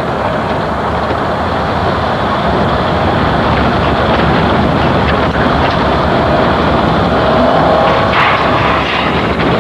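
Pickup truck accelerating, its engine and road noise running loud and steady and building slightly, with a faint rising tone late on.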